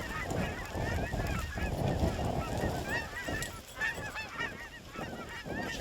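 A flock of geese honking, many calls overlapping, with wind rumbling on the microphone underneath.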